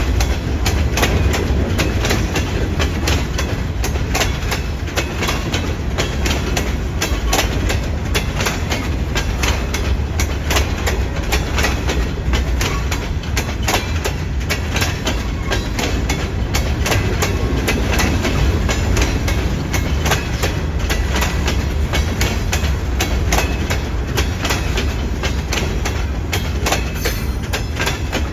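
Keokuk Junction Railway freight train rolling past: a steady low rumble of the cars with continual rapid clicking of wheels over the rail joints.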